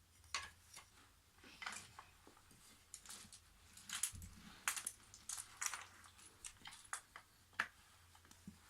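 IKEA wooden toy train track pieces clicking and knocking together as they are handled and fitted into a layout: a string of sharp, irregular clacks, about a dozen.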